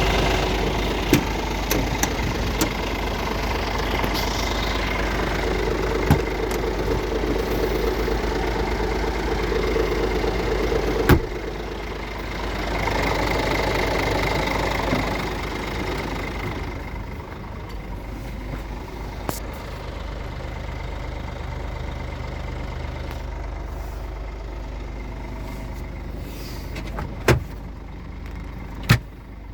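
Scania R450 truck's 13-litre straight-six diesel engine running at idle, with sharp clicks and knocks now and then. The sound swells for a few seconds about twelve seconds in and is quieter for the last third.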